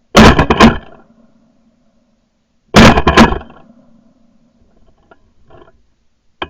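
Two shotgun shots about two and a half seconds apart, each very loud and trailing off over most of a second, as when a hunter fires twice at a passing dove. A sharp click comes near the end.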